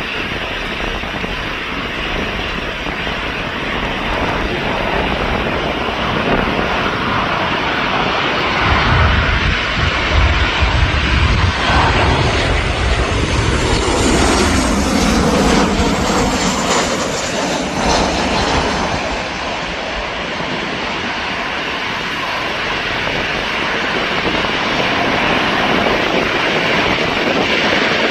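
Jet noise from a Boeing 737-800's CFM56-7B turbofan engines on landing. It swells to its loudest as the airliner passes close, about midway, then eases to a steady rumble.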